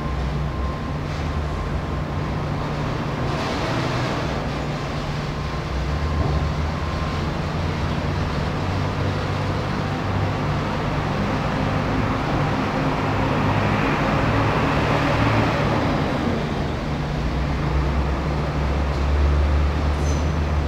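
Steady low rumble and hum of an MTR electric train approaching a station, slowly getting louder in the second half.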